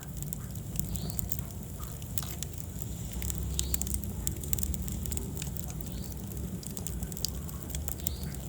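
Wood fire burning in a fireplace: a low steady rumble of the flames with frequent irregular sharp crackles and pops from the burning logs.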